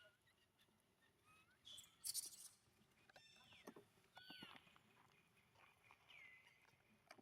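Baby monkeys giving faint, high-pitched calls that slide down in pitch, several in a row, with a sharp shrill squeal about two seconds in and a longer, drawn-out call near the end.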